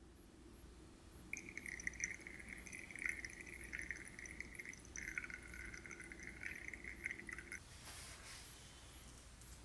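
Water trickling and dripping into a small glass aquarium, a light steady splashing that stops about seven and a half seconds in.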